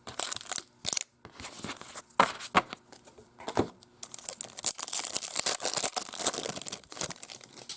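Foil trading-card pack wrapper being torn and crinkled by hand: irregular ripping and rustling with sharp crackles, busiest in the second half.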